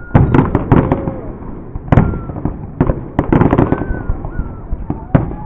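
Fireworks exploding: a rapid run of sharp bangs and crackles, bunched in the first second and again around the middle, with a steady rumble between them.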